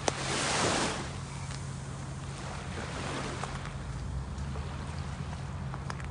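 Black Sea waves washing on the shore, one louder surge swelling and fading in the first second, then a steadier wash over a low rumble.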